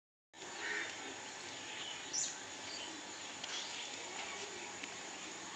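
Rural yard ambience: a steady background hiss with faint scattered bird chirps, and one sharper high chirp about two seconds in.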